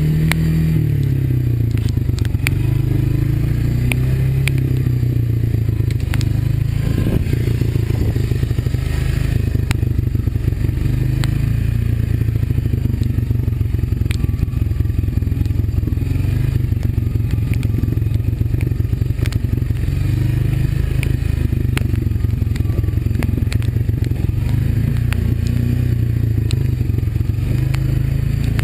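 Honda ATV engine running while riding a trail, its pitch dropping about a second in and then holding fairly steady with small rises and falls. Scattered knocks and clicks of the machine rattling over the ground come through over it.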